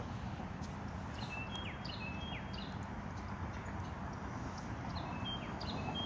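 A songbird singing two short phrases of clear whistled notes with quick downward slurs, about a second in and again near the end, over a steady low background noise.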